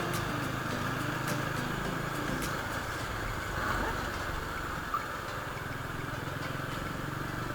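Motorcycle running steadily while being ridden. Its engine hum is mixed with a constant rush of wind and road noise.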